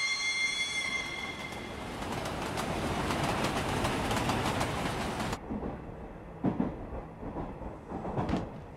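Train sound effects: a high steady whistle for about two seconds over the rushing noise of the train running, which drops suddenly to a quieter rumble with light rattling about five seconds in.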